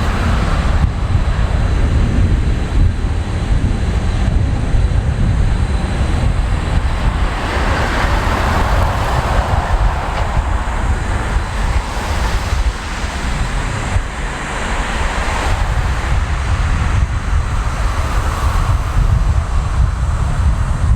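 Boeing 777-200ER airliner's jet engines at takeoff thrust, a loud continuous rumble and roar that swells about eight seconds in, with wind buffeting the microphone.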